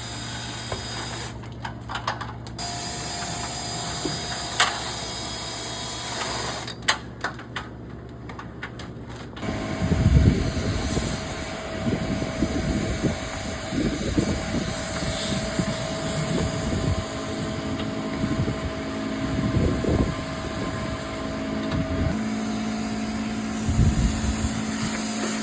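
Dryer vent cleaning equipment running: a steady motor hum with irregular knocking and clattering, changing abruptly several times and louder from about ten seconds in.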